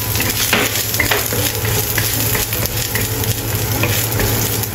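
Chopped ginger sizzling in hot oil in a wok, stirred with a wooden spatula that scrapes lightly now and then, over a steady low hum.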